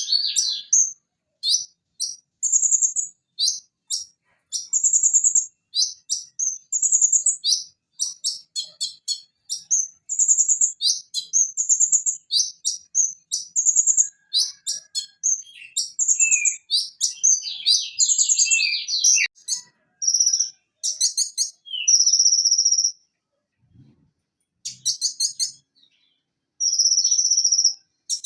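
Purple-throated sunbird (konin) singing a fast, varied string of high-pitched chirps, trills and short rattles. Longer buzzy held notes come in the second half, broken by a pause of about three seconds near the end.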